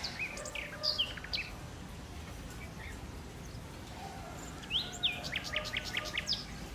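Songbirds singing in two bursts of quick high chirps and whistles, one at the start and another about five seconds in, over a steady low background noise.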